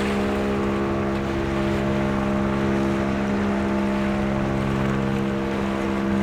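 An engine running at a steady speed: one even, unchanging hum with strong overtones.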